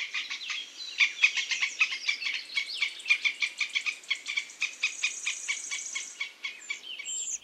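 Squirrel chattering: a long run of rapid, high-pitched chirping calls, about ten a second.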